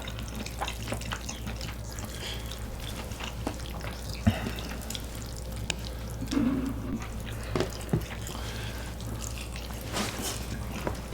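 Close-miked eating sounds: wet chewing, lip smacks and small clicks of people eating saucy spicy food, over a steady low hum.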